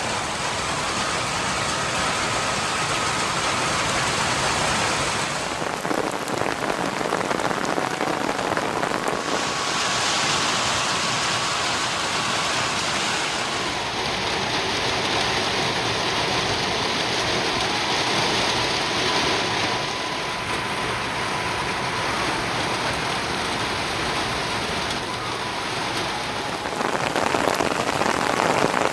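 Steady rain falling, a dense even hiss of drops whose sound changes abruptly a few times.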